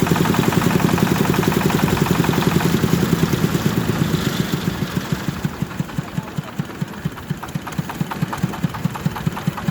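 Single-cylinder Kubota diesel engine driving a rice thresher, running fast at first, then slowing after about four seconds to a slow idle with distinct chugs, roughly four or five a second.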